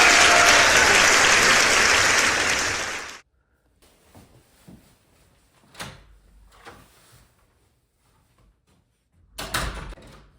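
A group of people applauding, cut off abruptly about three seconds in. Then quiet with a few faint knocks and a louder thump near the end.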